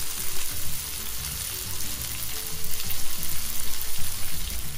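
Pomfret fish and onions sizzling in oil in a frying pan: a steady, fine crackling hiss.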